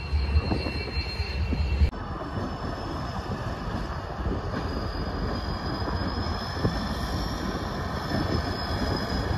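Covered hopper cars of a freight train rolling past, then, after a cut about two seconds in, a pair of diesel locomotives running as they creep along a yard track. The engine rumble grows a little louder near the end.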